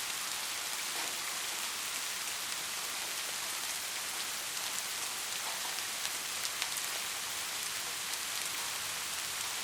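Steady rain falling on a surface: an even hiss with many small drop ticks and no thunder.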